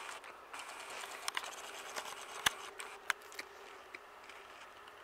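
A mouthful of raw potato being chewed: scattered crunches and clicks, with two sharper ones about halfway through.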